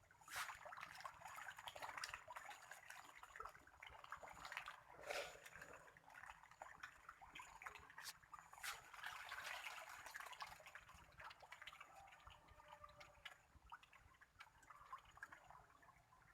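Catfish feeding at the water surface: a faint, continuous run of splashing, gurgling and small popping clicks as they gulp food, with a few sharper splashes, one about five seconds in and another near nine seconds.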